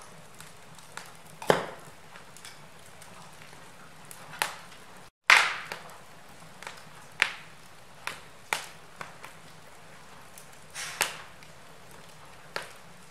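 Wood fire burning in a fireplace, crackling with irregular sharp pops over a faint steady hiss; the loudest pops come about a second and a half in and just after five seconds. The sound drops out to silence for a moment just before the second loud pop.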